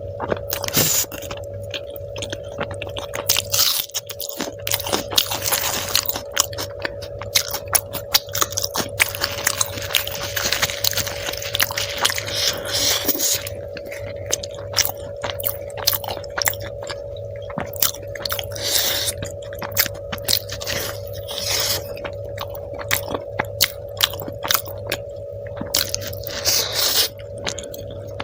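Close-miked chewing, biting and mouth clicks of a person eating chole bhature with dum aloo and rice, a steady run of short, irregular bites and smacks over a faint steady hum.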